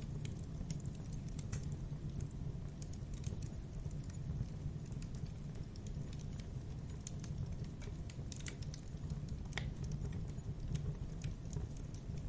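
Campfire burning: wood crackling with irregular sharp snaps and pops over a steady low rumble of the flames.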